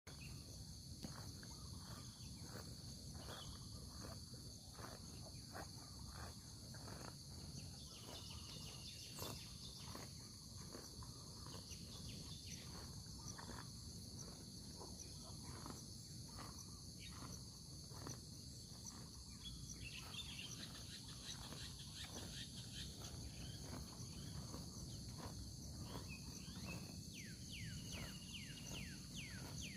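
Faint morning countryside chorus: a steady high insect drone with birds calling back and forth in many short chirps, and a run of quick falling bird notes near the end.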